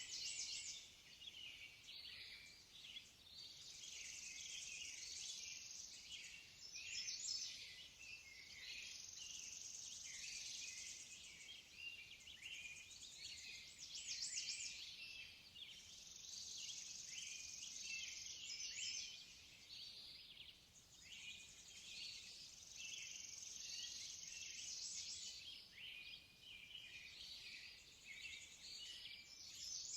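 Faint nature ambience of small birds chirping over a high insect chirring that swells in spells of a few seconds. The sound is thin and high, with no low end.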